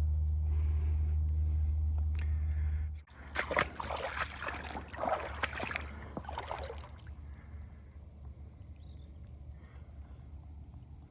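A steady low rumble of wind on the microphone, then, after a sudden break, water splashing and sloshing with quick clicks for a few seconds as oars work a small rowed dinghy, settling to a quieter lapping.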